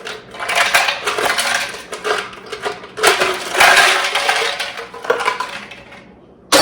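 Ice cubes clattering into the plastic hopper of a shaved-ice snow cone machine, in two spells of rattling strikes. A single sharp click comes near the end.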